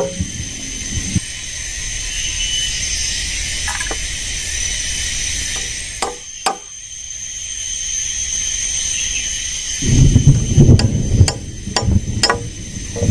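A few sharp chopping knocks over a steady high hiss of forest ambience. About ten seconds in, a loud, uneven low rumble sets in, with more knocks over it.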